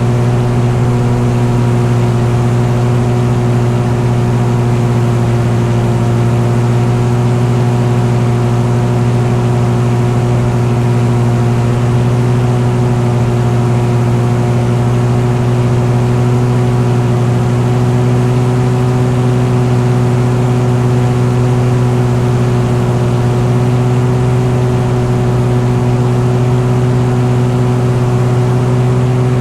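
An engine holding a steady, constant speed, giving an unchanging low drone with no revving up or down.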